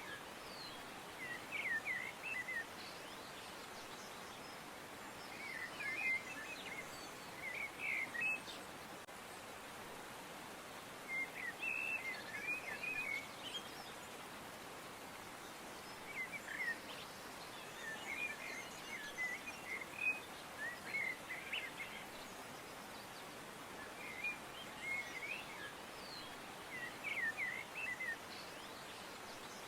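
Birds chirping in short bursts of quick, rapid chirps that come every few seconds, over a steady background hiss.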